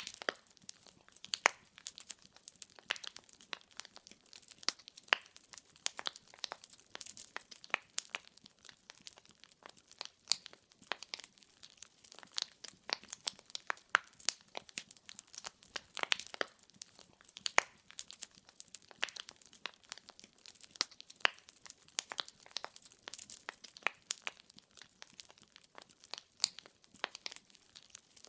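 Wood fire burning in a fireplace: logs crackling with a steady stream of irregular sharp pops and snaps over a faint hiss.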